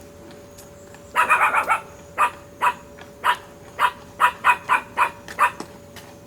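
An animal calling in a run of short, loud calls: a quick flurry just after a second in, then about nine single calls, each under a second apart.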